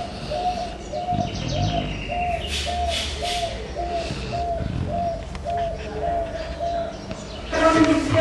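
A bird calling a long, even series of short hooting notes, about two a second, with higher chirps from other birds partway through.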